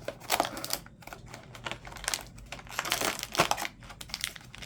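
Small advent-calendar box being opened and its packaging handled: irregular crinkling and rustling with small clicks and taps.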